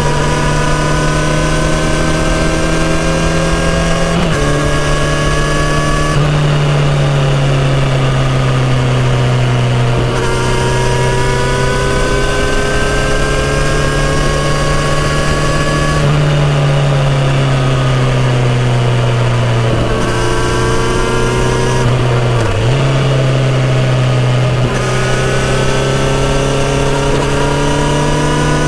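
Kawasaki Z900RS inline-four with a full-system exhaust running under way at moderate revs. The pitch slowly rises and falls as the throttle changes, with several abrupt jumps in pitch from gear changes and one brief dip a little past two thirds of the way through.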